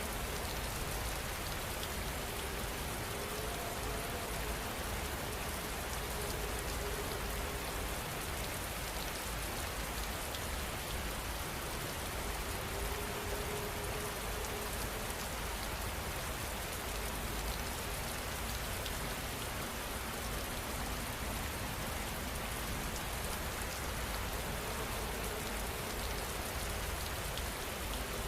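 Steady heavy rain falling, a dense even hiss of drops striking surfaces with many fine individual drop ticks, unchanging throughout.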